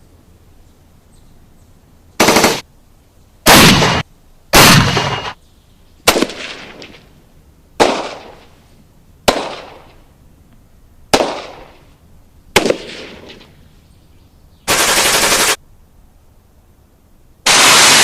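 Gunfire sound effects: three short loud bursts of automatic fire, then five single shots about one and a half seconds apart, each trailing off in echo. A short flat burst follows, and near the end a long loud burst begins.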